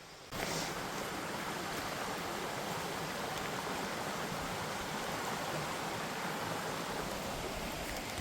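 A small mountain brook flowing steadily over rocks, an even rush of water that comes in suddenly just after the start.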